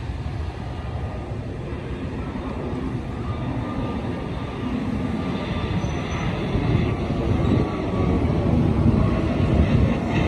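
Jet airliner engines rumbling, growing steadily louder as the aircraft comes nearer.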